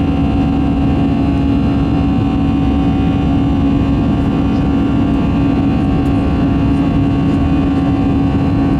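Cabin noise of an Airbus A320 heard from a passenger seat: the jet engines and airflow run steadily as a dense rumble with a strong constant hum over it.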